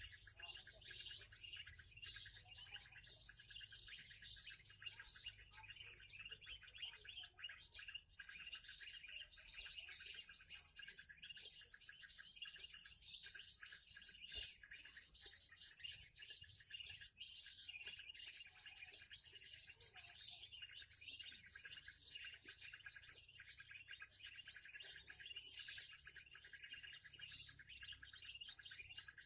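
Faint, dense chorus of small songbirds chirping rapidly and without pause, over a steady high-pitched hiss of insects.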